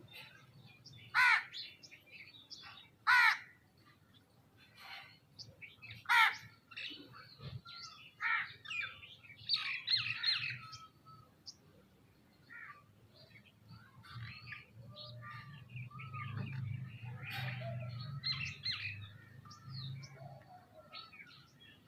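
Birds calling: three loud, harsh, caw-like calls in the first six seconds, then a busy mix of shorter chirps and whistles. A low steady hum runs underneath and grows louder in the second half.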